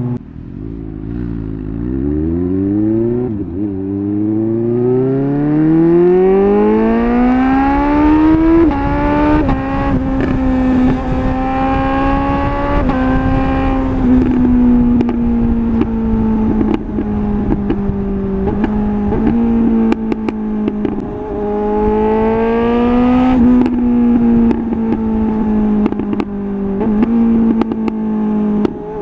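Suzuki GSR 750's inline-four engine through a MIVV Double Gun exhaust, pulling hard up through the gears with quick shifts that briefly drop the pitch. It then settles into a steady-speed run with small rises and falls in revs.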